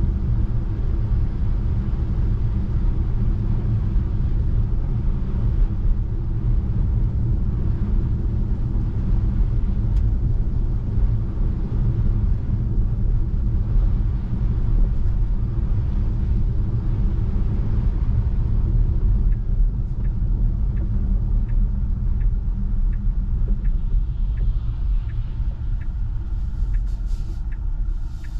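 Tyre and road rumble inside a Tesla Model 3's cabin, driving on a snow-covered road. About two-thirds of the way in, the turn-signal indicator starts ticking evenly, roughly one tick every three-quarters of a second.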